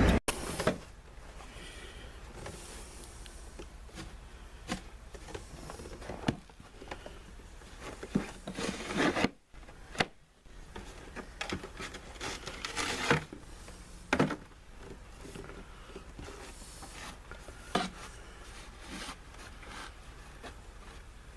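Snow shovel scraping and knocking in short strokes now and then, over a low steady hum.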